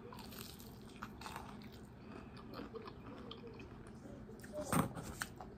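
Quiet chewing and faint crunching of breaded fried food being eaten, with a brief louder sound a little before the end.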